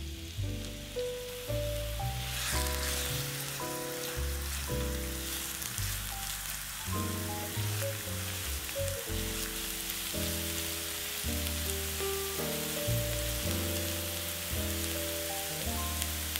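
Food sizzling as it fries in a pan, under background music of short melodic notes over a bass line. The sizzle gets louder about two seconds in.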